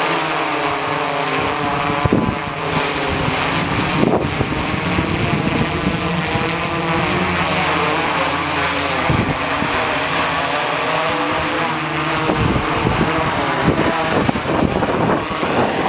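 DJI Inspire 2 quadcopter's four propellers spinning close by: a steady buzz of several tones, with rough gusty knocks building over the last few seconds.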